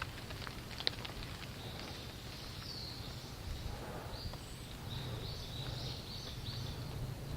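A small bird calling, a run of short high chirps, over a steady low rumble of outdoor background noise; a few sharp taps come near the start.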